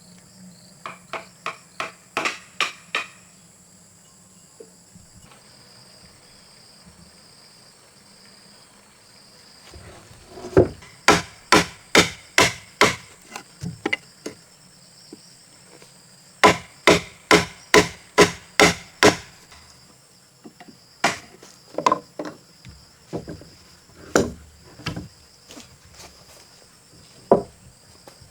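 Repeated hard blows on wooden timber, in quick runs of about two to three strikes a second with pauses between runs, then scattered single blows. Insects buzz steadily underneath.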